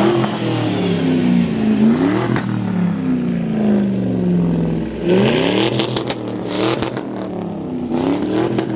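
Car engine revved hard several times, each rev climbing quickly and falling away slowly, with the exhaust popping and crackling on the overrun.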